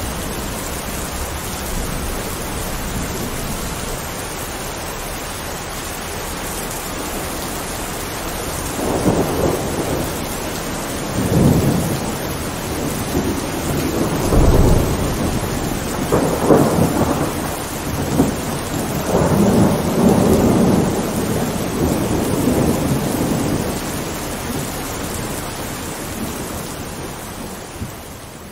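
Heavy rain falling steadily in a thunderstorm, with thunder rolling in several long rumbles through the middle. The rain and thunder die down near the end.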